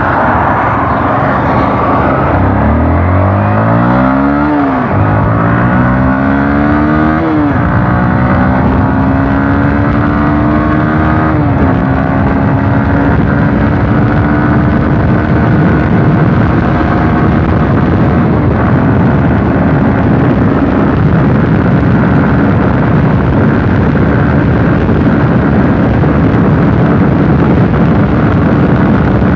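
Motorcycle engine accelerating hard through the gears: three rising revs, each cut short by an upshift, then running at a steady speed for the rest.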